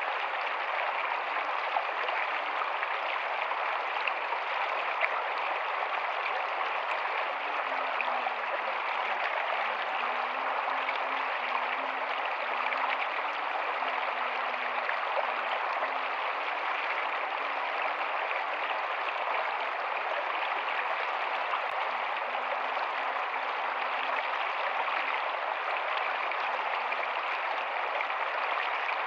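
Rocky stream running over stones, a steady even rush of water.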